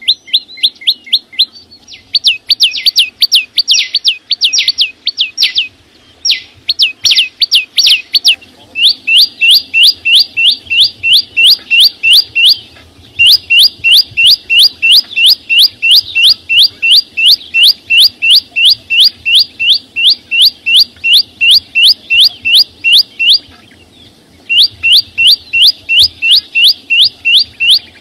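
Small songbird singing loudly: fast runs of clear rising whistled notes, about four a second, broken by a few short pauses, with a quicker, more varied stretch of notes early on.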